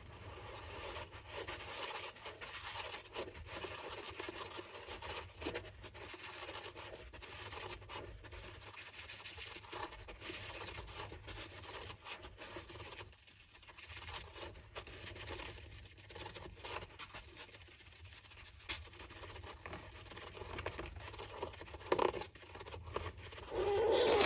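Golden hamster scratching and scraping in its sand bath: a continuous fine, crackly rustle of sand and claws, with a brief pause about halfway through.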